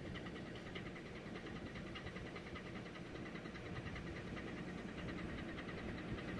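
A ship's engine running steadily, a constant mechanical hum with a fast, even ticking running through it.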